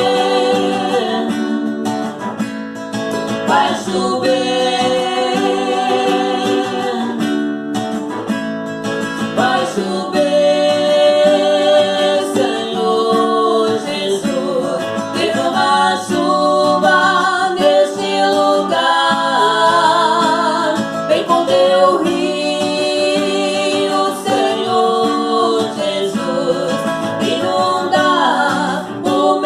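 Praise song: singing voices with vibrato over acoustic guitar accompaniment.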